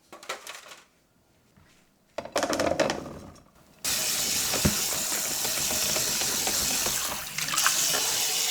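A few short handling sounds, then about four seconds in a tap is turned on and water runs steadily into a sink.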